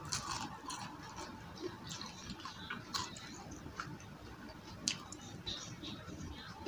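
Crunchy battered onion rings being chewed close to the microphone: a run of small crisp crackles, with sharper crunches at the start, about three seconds in and about five seconds in.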